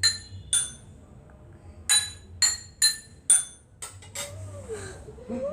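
Drinking glasses holding different levels of liquid struck one at a time, giving six clear ringing clinks. Two come about half a second apart near the start, then four at a quicker even pace around two to three seconds in.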